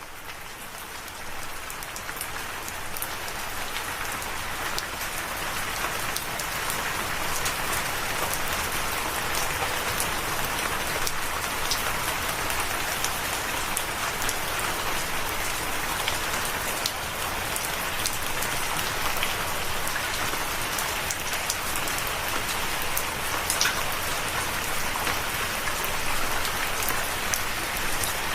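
Steady rain falling, an even hiss with scattered close drops ticking sharply. It fades in from near silence over the first several seconds, then holds steady.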